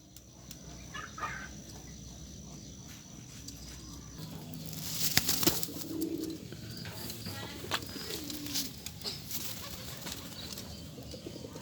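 Domestic pigeons flapping their wings, with a loud flurry of wingbeats about five seconds in and shorter ones after, and pigeons cooing between them.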